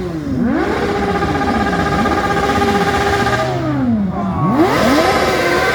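A car's engine revving hard as it accelerates away, its pitch climbing and dropping back again and again. It holds a steady high note, dips sharply about four seconds in, then climbs again.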